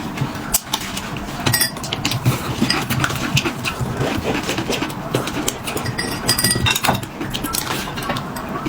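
Tableware clinking during a dumpling meal: many small irregular knocks of utensils against bowls and plates.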